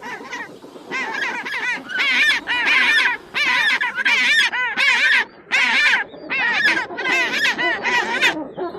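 A bird's repeated honking calls: a series of about a dozen short, harsh calls in quick succession.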